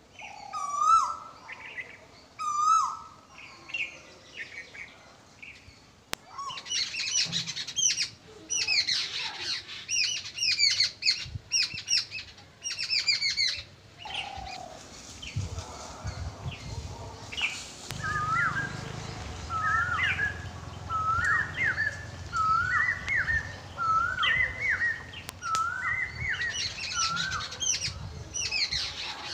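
Birds chirping and calling. Through the middle there are dense runs of quick high chirps, and in the second half one bird repeats a short rising call about once a second.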